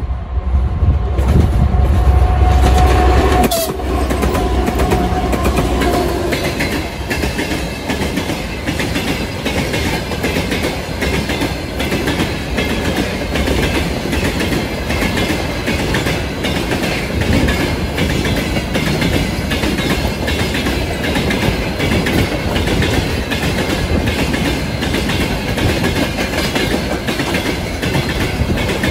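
2TE116U diesel freight locomotive passing at speed: a loud low engine rumble with a steady horn-like tone for the first three or so seconds. Then a long string of tank wagons rolls by, wheels clattering steadily over the rail joints.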